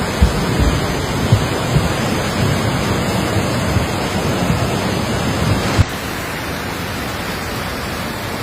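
Steady roar of fast-moving floodwater, with scattered low thuds in the first part. About six seconds in the sound changes abruptly to a slightly quieter, smoother rush of water.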